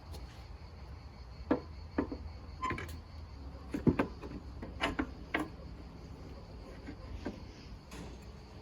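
Irregular light knocks and clicks of hard parts being handled, several in quick succession in the middle, with one sharp click at the end, over a faint steady high-pitched hum.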